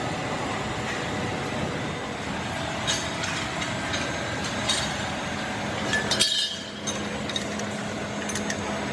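Steady workshop din with a few sharp metallic clinks of metal parts or tools knocking together, a cluster of them a little past the middle.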